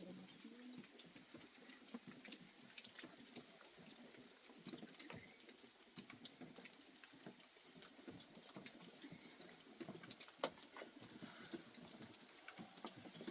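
Faint, irregular light ticks and rustles, with one sharper click about ten and a half seconds in.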